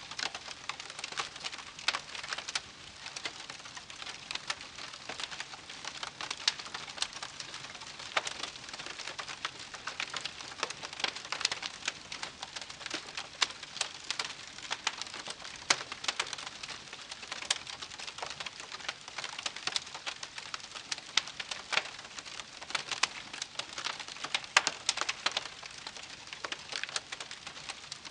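Wood campfire crackling: a steady soft hiss dotted with frequent sharp pops and snaps from the burning wood.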